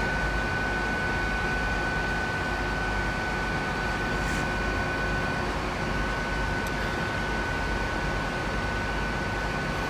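Diesel multiple unit running steadily at the station platform: an even rumble and hiss with a steady high whine throughout.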